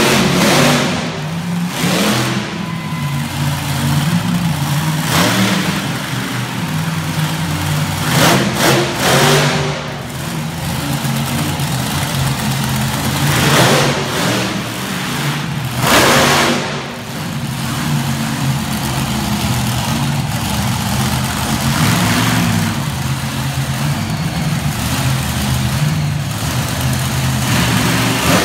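Monster truck engine running loud, with a wavering low drone and repeated hard revs that swell and fall away about half a dozen times.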